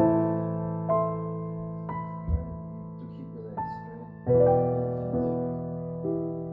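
Slow, gentle piano music: single notes and held chords struck about once a second, each ringing out and fading, with a fuller chord a little past four seconds in.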